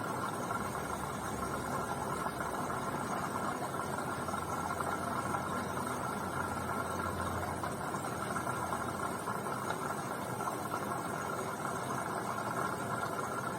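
BEKO washing machine running mid-cycle: a steady motor hum and drum noise.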